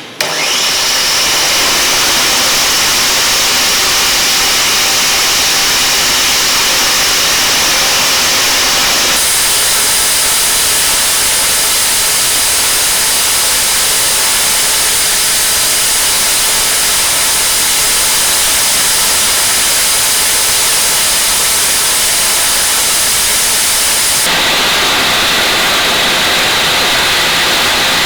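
Angle grinder running at full speed, driving a homemade wood chipper's planer-blade cutter through a chain drive: a loud, steady, hissing whine. It starts abruptly, and its tone shifts suddenly about a third of the way in and again near the end.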